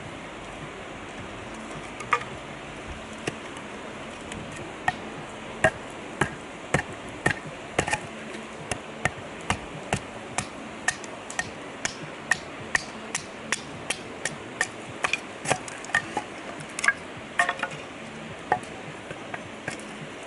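Repeated hammer blows, a few scattered at first and then a steady run of about two a second, typical of a peg hammer driving a tent or tarp peg into the ground. A steady river rush runs underneath.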